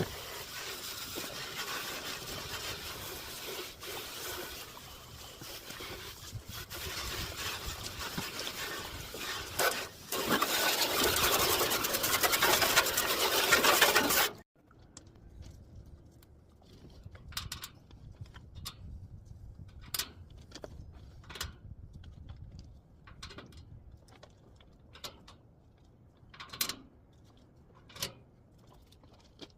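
A steady hissing spray while an air conditioner unit is being cleaned, louder for a few seconds near the middle, then cutting off suddenly. After that it is fairly quiet, with scattered light clicks and knocks.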